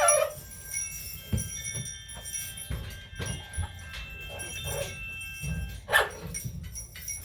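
Pet parrot calls, a short one at the start and another about six seconds in, over a bell ringing and light clicks and knocks.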